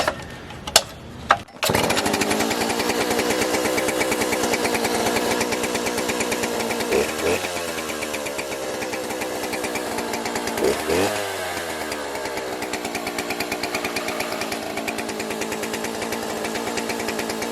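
Cheap Stihl-knockoff two-stroke chainsaw catching about a second and a half in after a few clicks, then running steadily and loud. Two brief revs come in the middle, and the engine winds down near the end.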